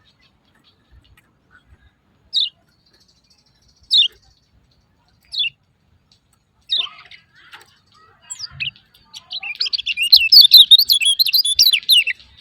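Kecial kuning, a white-eye, giving 'ciak ciak' calls. First come single sharp, falling chirps about every one and a half seconds. From about nine seconds in there is a fast, loud run of chirps that stops just before the end.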